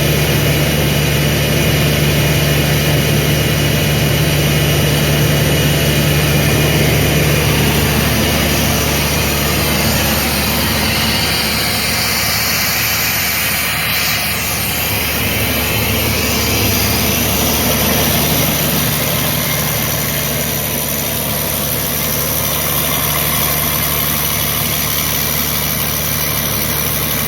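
Sullair portable air compressor driven by a Caterpillar C15 inline-six diesel, running steadily and loudly; its low engine note eases off for several seconds in the middle and then comes back.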